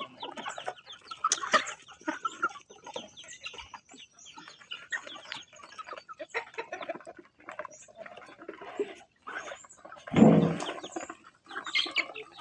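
Chickens clucking, many short calls overlapping one another, with a louder, lower burst of sound about ten seconds in.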